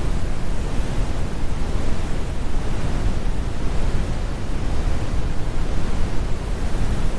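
Steady, deep brown noise: a continuous rumble with the high frequencies rolled off, unchanging throughout.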